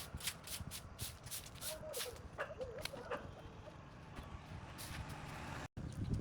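Rhythmic scraping strokes, about three to four a second, of a hand tool working dirt and grass off a concrete sidewalk; the strokes thin out midway, and the sound cuts out briefly near the end.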